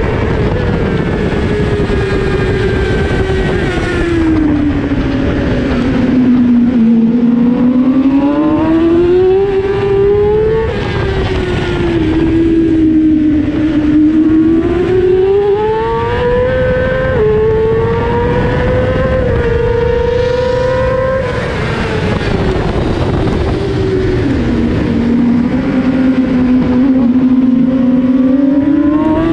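2018 Yamaha R6's 599 cc inline-four engine at race speed. Its note climbs under acceleration and falls away as the bike slows, several times over, with sudden drops in pitch at upshifts, such as about 11 and 21 seconds in.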